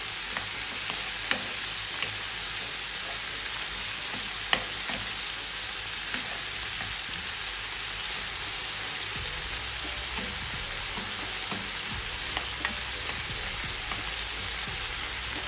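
Diced peppers, onion and cherry tomatoes sizzling in an oiled pan, a steady hiss, with small scrapes and taps of a wooden spoon as they are stirred; one sharper tap about four and a half seconds in.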